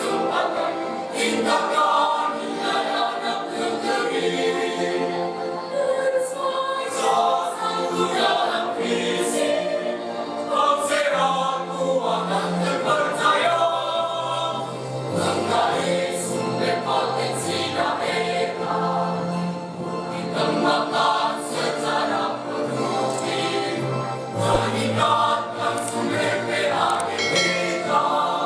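High-school choir singing in several voice parts, holding long notes, with a lower part coming in about eleven seconds in.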